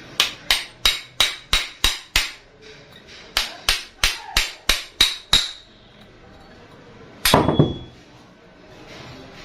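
A hammer tapping on metal car AC compressor parts. There are two runs of sharp, ringing strikes, about seven and then six at roughly three a second, with a short pause between them. About seven seconds in comes one louder clunk.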